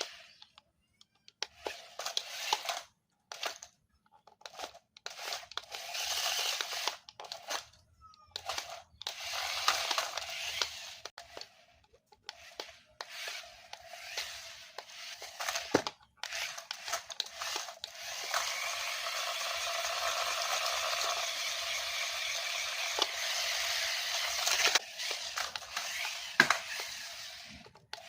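Packaging being handled and opened: irregular crinkling, tearing and crunching of plastic and cardboard in short bursts, with a steadier run of rustling past the middle.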